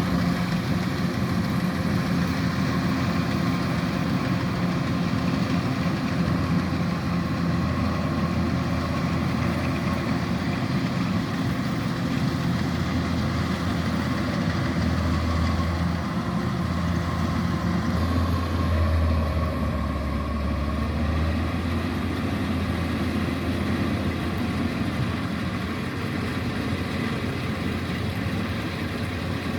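Kubota DC-105X combine harvester's diesel engine running steadily, with a deeper low hum for several seconds about halfway through.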